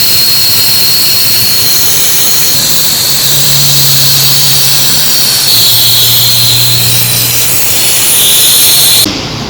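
A loud, steady rushing hiss, with a faint low hum beneath it, that cuts off suddenly near the end.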